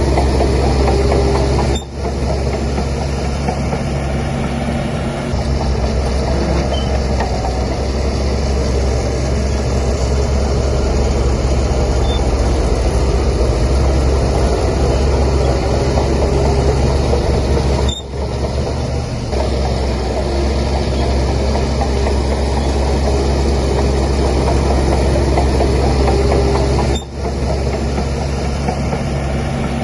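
Heavy diesel engine of a Shantui DH17C3 crawler bulldozer running steadily while working, a loud low drone with dense mechanical noise over it, dipping briefly three times.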